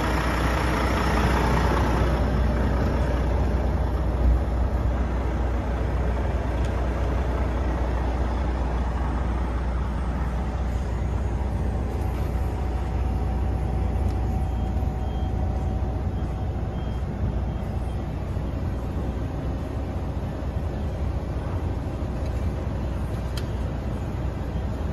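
Volvo FH 540 truck's 13-litre six-cylinder diesel engine idling steadily, with a single short low thump about four seconds in.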